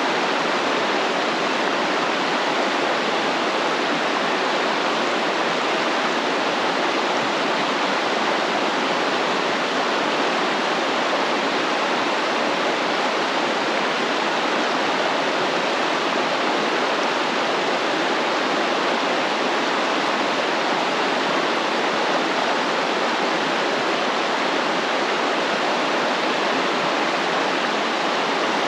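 Stream water flowing and rushing in a steady, even wash of noise.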